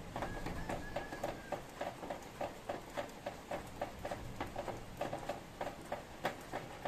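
Rain dripping and pattering in irregular drops, several a second, over a faint steady hiss of rainfall.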